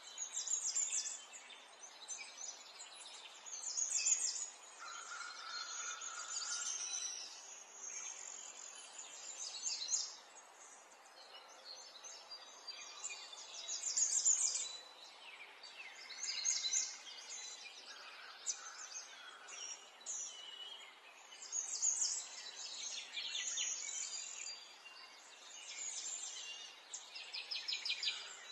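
Small birds chirping and singing in short, rapid trills, with a few held whistled notes, over a faint steady hiss.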